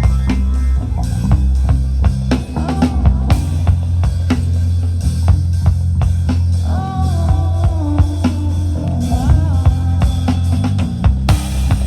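Live rock band playing an instrumental passage: a drum kit with bass drum and snare hits driving a steady beat over a heavy bass, with a melodic instrument line bending in pitch through the middle.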